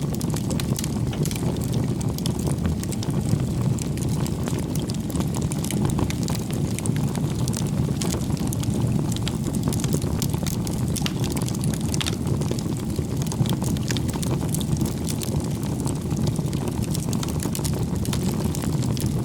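Wood fire burning: a steady low rumble of flames with many small, irregular crackles and pops from the burning wood.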